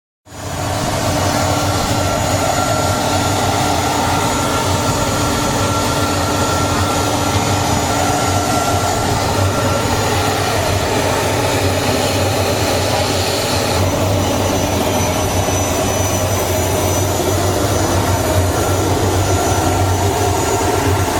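Steady jet-aircraft noise inside the cabin of a Fokker 70: an even rush with a few steady whining tones, cutting in abruptly just after the start and holding level throughout.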